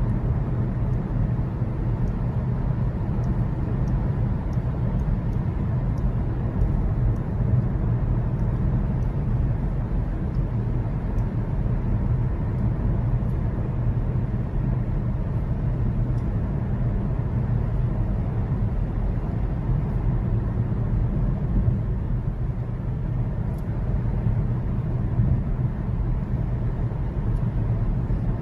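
Steady driving noise from a Genesis GV80 3.0 diesel SUV on the move: a low, even rumble of its inline-six diesel engine and tyres at cruising speed.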